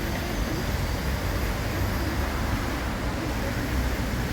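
City street background noise: a steady low rumble with a hiss over it.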